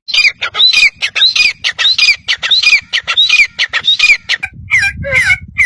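A bird calling over and over, about three short calls a second, each a quick hooked note falling in pitch. Past the middle the calls drop a little lower and come slightly slower, over a low rumble.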